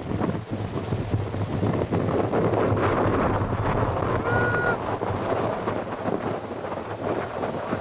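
Strong wind buffeting the microphone: a steady, fluttering rush. About halfway through, a short high-pitched tone sounds briefly.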